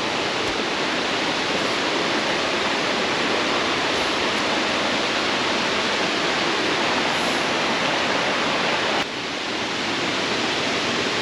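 Steady rushing of a mountain waterfall. The level drops abruptly about nine seconds in, then the rushing carries on slightly quieter.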